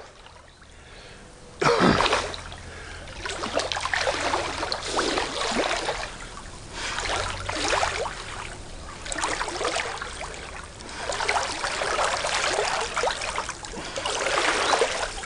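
A person getting into a moat and swimming: a splash a little under two seconds in, then repeated irregular splashing and sloshing of the water.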